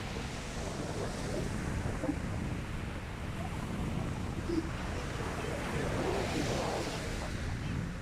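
Sea waves breaking and washing up a shingle beach, with a swell of surf about six seconds in, and wind buffeting the microphone with a low rumble.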